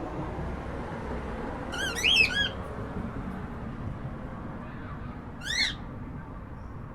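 Cockatiel chirping: a quick run of three short calls about two seconds in, then a single call near the end, over a steady low background hiss.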